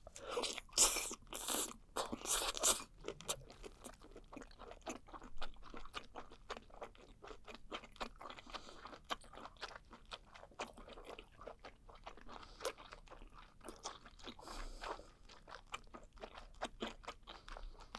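Close-miked eating of a whole parboiled webfoot octopus: loud biting crunches in the first three seconds, then steady chewing with the mouth closed, a stream of short clicks.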